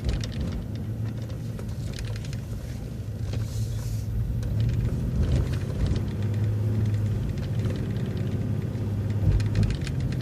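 City transit bus running as it turns, heard from inside the bus: a steady low engine rumble and hum that shifts a little in pitch, with light rattles and a brief hiss about three and a half seconds in.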